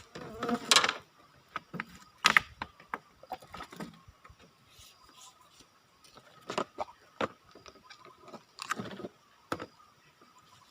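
Irregular knocks, clicks and brief rustles of gear being handled, loudest in the first few seconds and again in a cluster near the middle, over a faint steady high hum.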